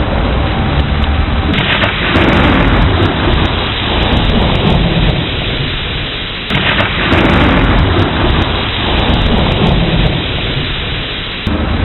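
Heavy rain with thunder rumbling. The sound brightens abruptly twice, about five seconds apart, and fades after each.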